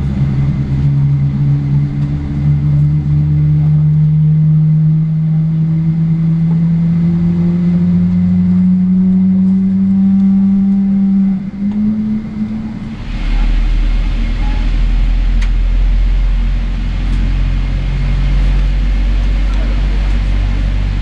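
Jet engine on a Boeing 777-300ER, heard inside the cabin, spooling up with a slowly rising whine. About 13 seconds in, the whine gives way to a steady, deep cabin rumble.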